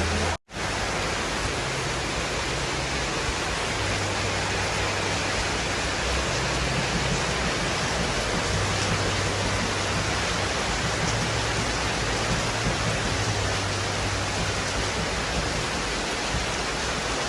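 Heavy rain pouring down steadily, a dense even hiss. The sound drops out completely for a moment about half a second in.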